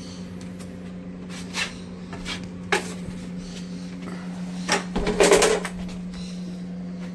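Plastering hand tools knocking and scraping during drywall jointing: a few sharp clicks, then a longer, louder scrape about five seconds in, over a steady hum.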